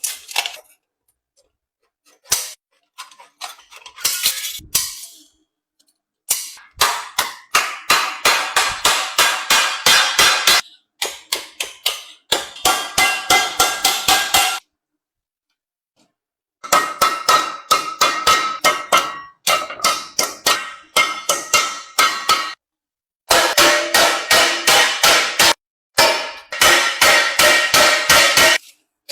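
Hand hammer striking sheet iron in rapid runs of about five blows a second, each run lasting a few seconds with short pauses between, the metal ringing with each blow.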